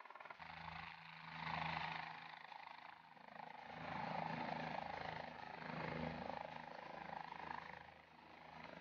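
OH-58 Kiowa Warrior scout helicopter hovering low, its rotor and turbine running steadily, the sound swelling and easing a few times.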